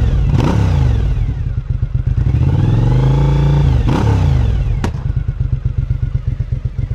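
Suzuki SV1000's 90-degree V-twin, on its stock exhaust, being revved: the revs drop, climb again and fall back. On the fall a single sharp pop comes from the exhaust, the kind of overrun backfire that throws a flame. The engine then settles to a lumpy idle.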